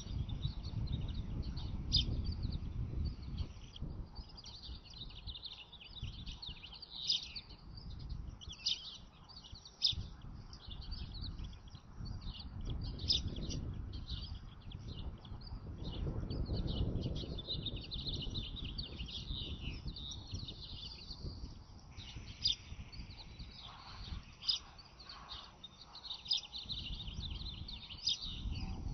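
Many quick, high bird chirps and twitters, coming thick and fast, over a low rumbling noise.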